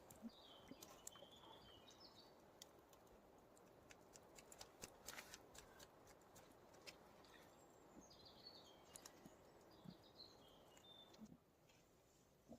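Near silence: faint outdoor ambience with a few faint scattered clicks, and a bird chirping briefly twice, near the start and again about two-thirds of the way through.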